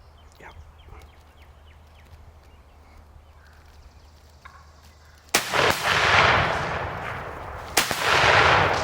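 Two shotgun blasts about two and a half seconds apart, the first a little past halfway through, each trailing off over a second or more, fired at gobblers by two hunters. Before them, quiet with faint chirps of songbirds.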